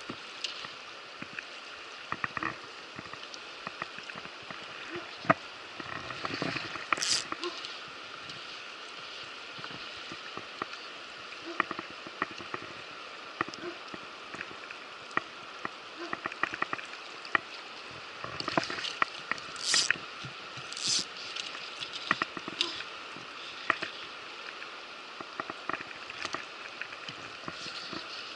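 River water rushing steadily, with scattered sharp clicks and a few short hissing bursts over it.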